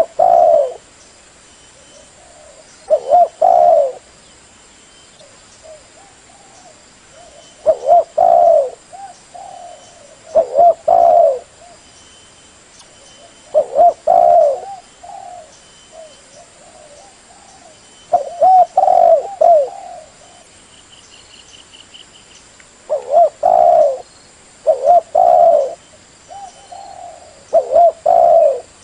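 Spotted dove cooing: bouts of short, repeated coo phrases every few seconds.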